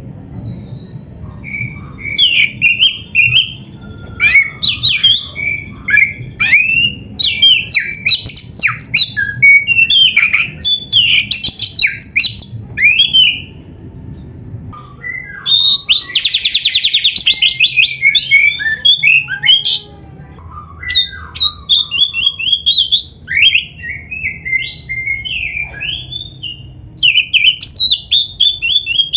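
Oriental magpie-robin (kacer) singing loudly and continuously: a rich run of varied whistles, chirps and harsh notes, packed with mimicked fills. From about fifteen to nineteen seconds in, it gives a fast buzzing rattle.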